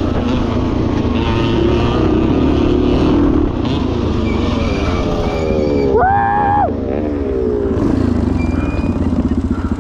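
Motorcycle engine, apparently the 1977 Yamaha TT500's single-cylinder four-stroke, running under riding, its pitch falling as it eases off about five to eight seconds in. A brief, steady, higher-pitched tone sounds about six seconds in.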